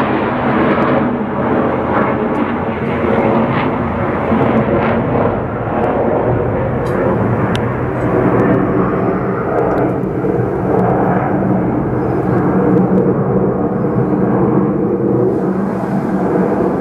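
Display team aircraft flying over, their engines making a loud, steady noise that never lets up.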